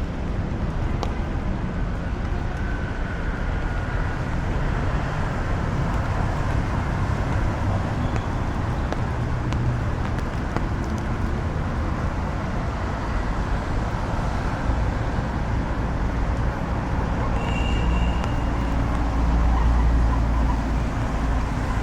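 Steady rumble of city traffic mixed with low wind buffeting on the microphone, swelling briefly near the end.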